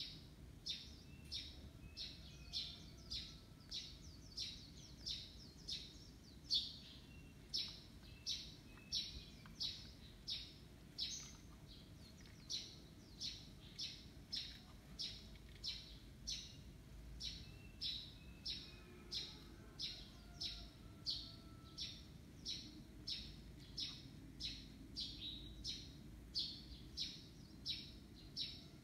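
A bird repeating a short, high chirp steadily, about twice a second.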